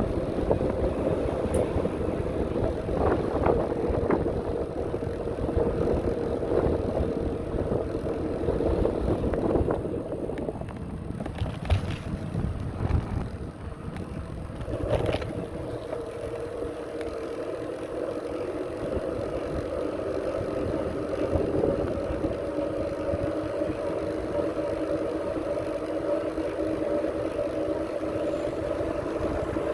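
Bicycle in motion: wind rumbling on the microphone over a steady hum from the moving bike, which shifts pitch about halfway, with a few light knocks near the middle.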